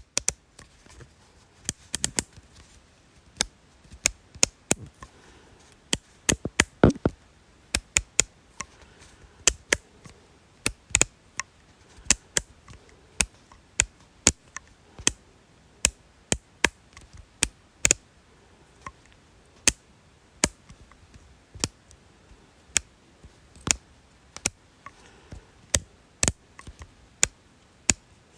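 A series of sharp, crisp clicks at irregular intervals, roughly two a second, some louder than others.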